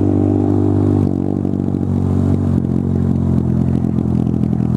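Honda MSX125 Grom's single-cylinder 125 cc engine running through a loud aftermarket exhaust, holding steady revs. About a second in the note drops and turns uneven as the revs come down.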